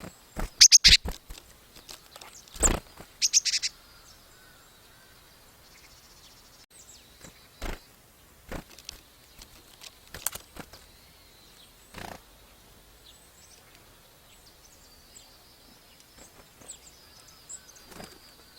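Small birds chirping in short, sharp high calls, with a busy cluster in the first few seconds and then scattered single chirps and sharp taps, faint high twitters near the end.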